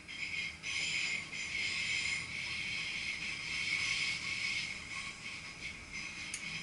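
VIRM double-deck electric train running with a steady high-pitched squeal from its running gear, heard from the driver's cab over a low rumble.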